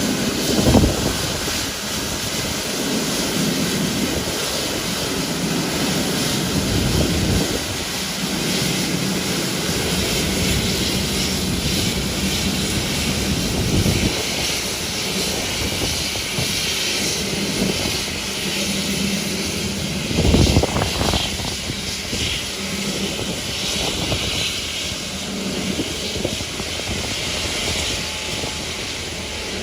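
Airliner engines running, a steady noisy rumble heard from an airport observation deck. Gusts of wind hit the microphone about a second in and again about twenty seconds in.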